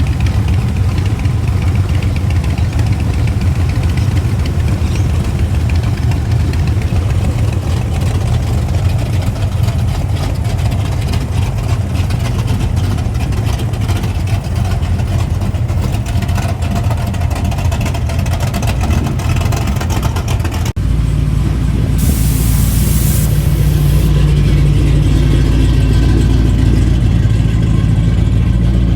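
Car engines running with a steady low drone. About two-thirds of the way through the sound changes abruptly to a louder, deeper engine drone, and shortly after a sharp hiss lasts about two seconds.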